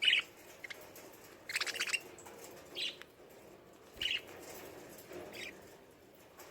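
Lovebirds chirping: short, shrill calls in separate bursts, the loudest a rapid run of chirps about a second and a half in.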